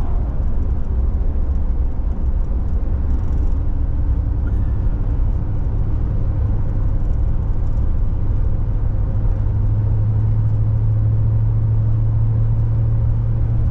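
Steady road and engine rumble of a car heard from inside the cabin while driving, with a low hum that grows stronger about ten seconds in.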